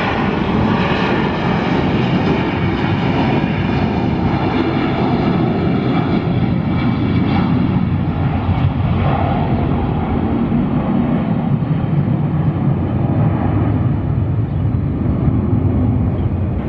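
Jet airliner engines running loud and steady, a dense low noise whose highest part slowly dies away.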